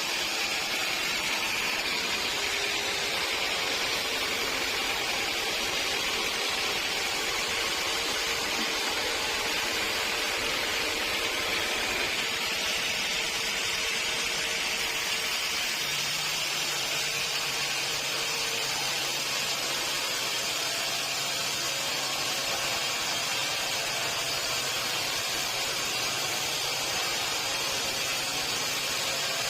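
Sawmill machinery running steadily, a constant hissing whir, with a low hum coming in about halfway.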